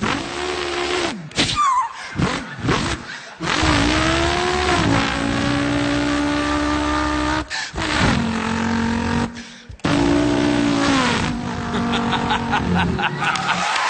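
A man vocally imitating a car engine: revs rise and fall, hold a steady drone for a few seconds, and drop away, with short breaks between runs and a brief squeal-like glide near the start.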